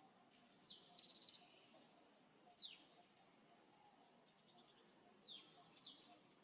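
Faint bird calls: a few quick high chirps sweeping downward in pitch, and a short call with a buzzy trill about half a second in and again near the end, over a quiet background.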